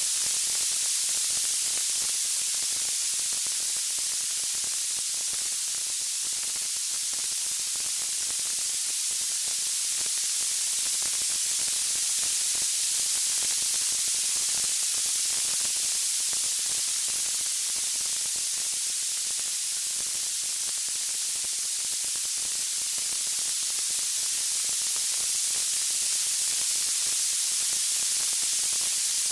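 Steady white-noise hiss, strongest in the high range and unchanging, with no separate crackles or pops.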